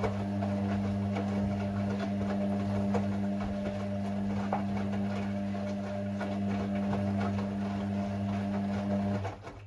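Hoover Sportswear 1300 washing machine running mid-cycle with a steady hum and faint clicks throughout, which cuts off suddenly near the end.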